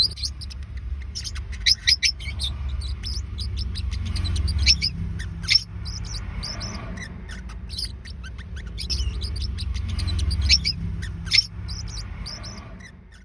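Forpus parrotlets chirping: many short, sharp, high-pitched calls in quick succession, over a steady low rumble that fades out at the end.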